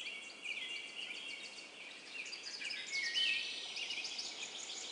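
Songbirds chirping and trilling, many short high calls overlapping one another over a faint hiss.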